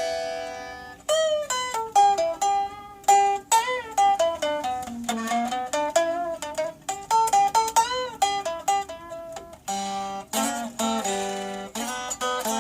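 A plucked string instrument playing a solo riff: a ringing chord, then a run of single notes, several of them bent up and back down in pitch, and another chord about ten seconds in.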